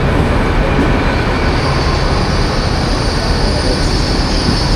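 Passenger train running through a station with a loud, steady rumble; a high squeal joins in about a second and a half in and grows stronger.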